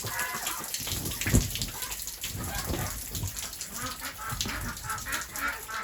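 Rain pattering on a cover while pooled rainwater is pushed off it with a stick and spills down in splashes, with a heavier thud about a second and a half in.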